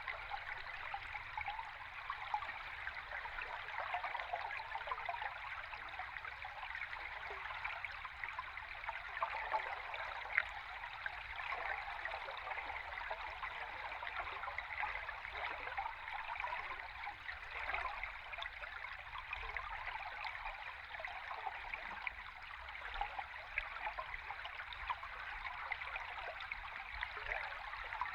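Running river stream heard underwater: a steady rushing noise thick with tiny ticks and pops from moving water and bubbles.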